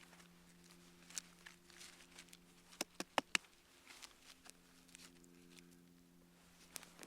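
Campfire wood crackling, scattered sharp snaps and pops with a quick run of four louder pops about three seconds in, over a faint steady low hum.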